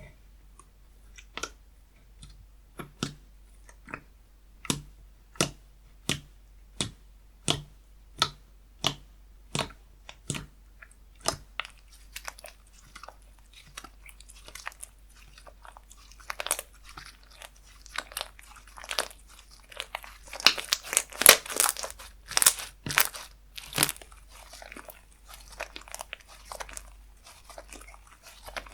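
Slime being poked and pressed by hand, with sharp popping clicks about one and a half times a second at first, then faster crackling and squishing, loudest about two-thirds of the way through.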